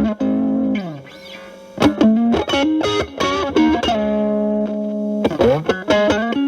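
Electric guitar with single-coil pickups played through a Boss DS-1 distortion stacked with an Ibanez TS9 Tube Screamer as a boost, into a Marshall Valvestate amp. It plays a bluesy single-note lead: a held note bending down, a short quieter gap, then picked notes, a long sustained note and a quick slide down the neck.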